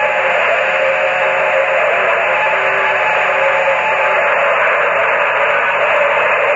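A horn held down for several seconds, heard over a radio-style voice channel: a steady chord of horn tones half buried in loud hiss. The lowest tone drops out about four seconds in.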